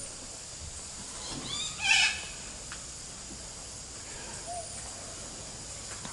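A parrot gives a single short, harsh call about two seconds in, led by a few quick rising chirps; a fainter call follows later.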